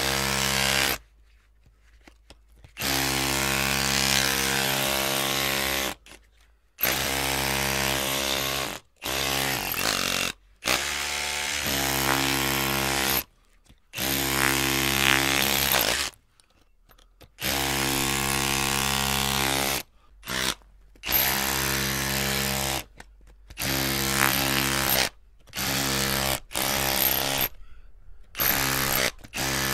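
Electric drill running in about a dozen short bursts of one to three seconds, its motor starting and stopping abruptly with short silent pauses in between.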